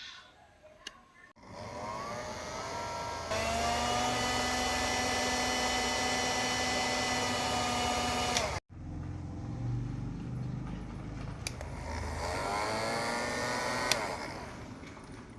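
A small electric motor spins up with a rising whine, runs steadily for about five seconds, then cuts off abruptly. It spins up again near the end and stops suddenly.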